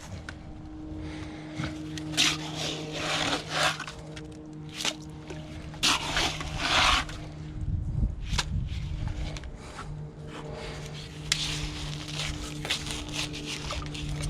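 Stainless steel brackets being pushed and worked into wet cement, giving short scrapes and knocks at irregular intervals over a steady low hum.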